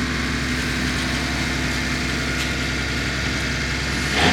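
A vehicle engine idling steadily, with a short noisy burst just before the end.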